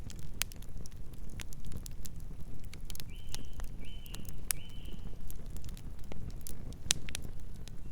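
Campfire burning, with a low steady rumble and frequent sharp crackles and pops from the wood. About three seconds in, three short high chirps come one after another.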